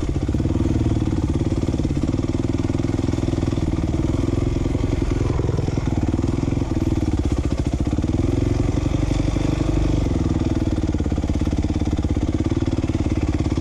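A 2007 450R dirt bike's single-cylinder four-stroke engine running under way at fairly steady revs, which rise and fall slightly about two-thirds of the way through.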